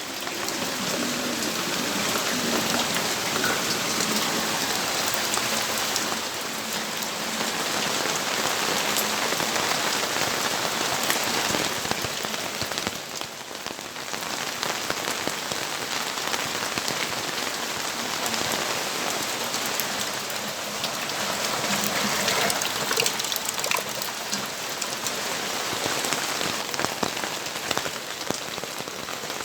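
Steady rainfall: a dense hiss of rain with many individual drops pattering on hard surfaces. It eases briefly about halfway through, then picks up again.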